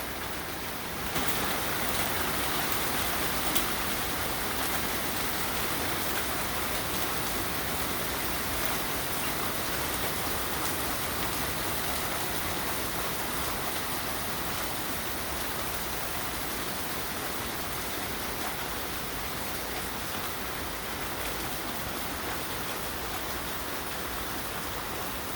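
Heavy rain pouring down, a steady rushing hiss of rain on surfaces. It grows louder about a second in as the downpour arrives in full, then eases off a little.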